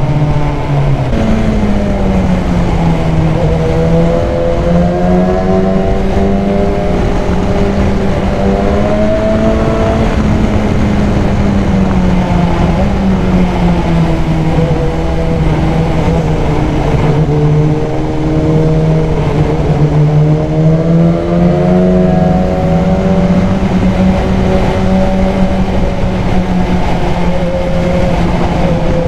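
BMW S1000XR's inline-four engine, breathing through a K&N high-flow air filter, running under way. Its pitch slowly rises and falls several times as the throttle is opened and eased.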